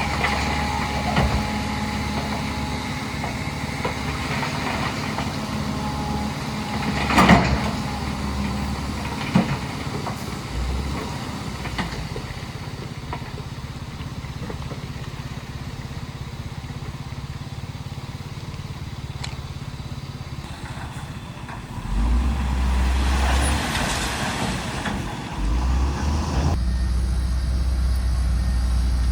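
Heavy diesel earthmoving machinery (bulldozer and dump truck) running, with a sharp metallic knock about seven seconds in and a smaller one a couple of seconds later. Near the end the engine note deepens and grows louder as it works harder, with a brief rushing hiss.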